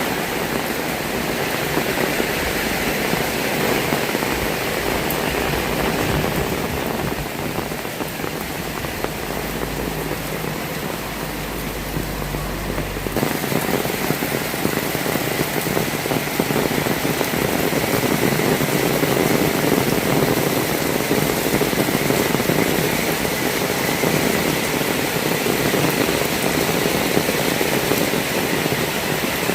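Heavy rain falling steadily, a dense even hiss. A low rumble sits under it for a few seconds before the sound changes abruptly about thirteen seconds in, as at a cut.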